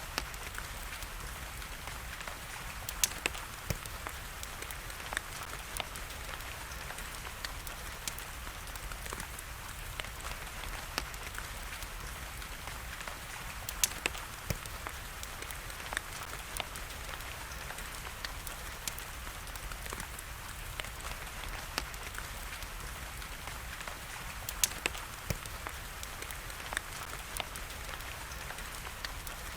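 Steady hiss of rain with a wood fire crackling through it, scattered sharp pops and clicks, a few of them louder than the rest.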